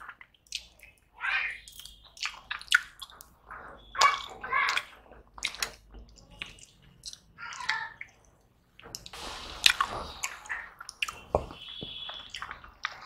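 Close-up wet chewing and lip-smacking of a person eating turmeric rice and a chicken drumstick by hand, in short irregular bursts. Near the end the rice is squished together by hand on a steel plate.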